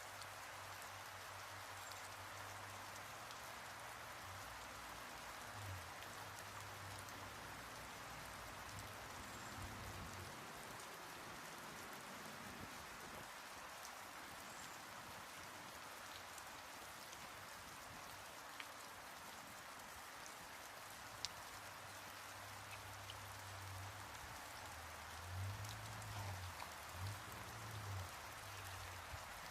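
Faint steady rain falling, with a few scattered drop ticks and some low rumbling bumps near the end.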